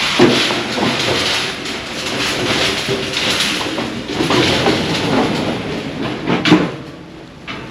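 Train passing close by on the seafront railway line, a loud rumbling and rattling of wheels on the track, which falls away sharply near the end.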